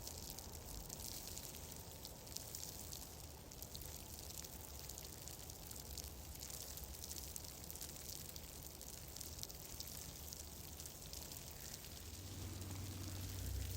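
Steady ambience bed: a soft hiss full of fine crackles over a low rumble, the rumble growing louder near the end.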